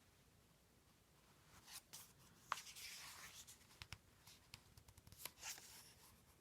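Near silence with faint paper rustles and a few light clicks, a picture book's pages being handled and turned.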